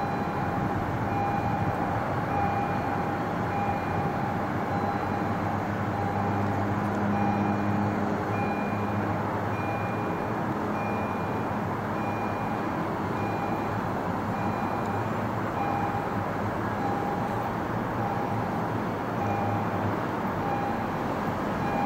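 MBTA commuter train locomotive approaching slowly with its diesel engine running, a steady rumble, while a bell rings in an even repeating rhythm.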